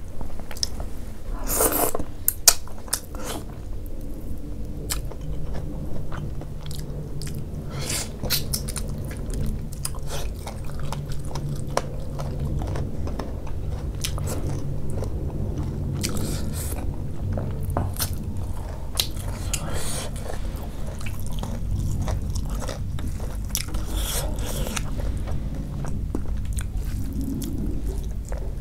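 Close-miked chewing and biting of rice and curry eaten by hand, with wet mouth sounds and short crunchy clicks scattered throughout.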